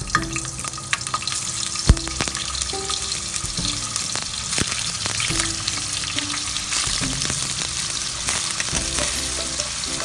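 Paneer cubes sizzling in hot oil in a non-stick pan as they are laid in one by one, a steady frying hiss, with one sharp knock about two seconds in.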